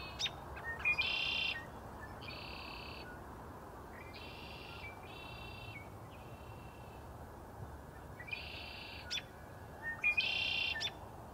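A bird repeating a harsh, buzzy call, about seven calls each half a second to a second long, over a steady background hiss.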